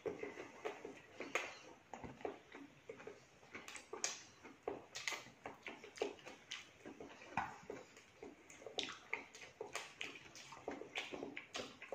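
Wet chewing and lip-smacking of people eating with full mouths, irregular soft smacks and clicks several times a second.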